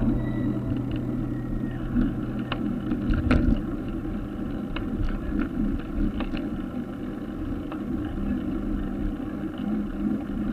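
Road traffic noise: a steady low rumble of vehicles with scattered light clicks.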